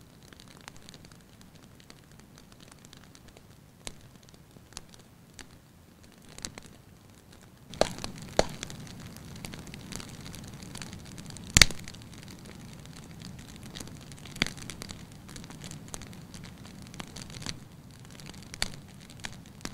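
Wood fire in a fireplace crackling, with scattered sharp pops over a steady burning rustle. The rustle grows louder about eight seconds in, and there is one especially loud pop a little past the middle.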